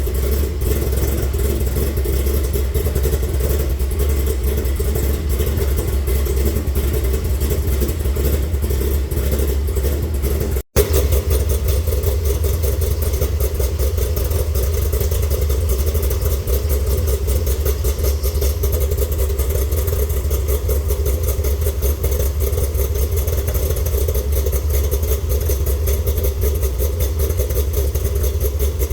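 Chevrolet C5 Corvette's LS1 V8 running steadily with a strong low drone, the car's freshly installed 4L60E automatic transmission in service. The sound cuts out for an instant about ten seconds in.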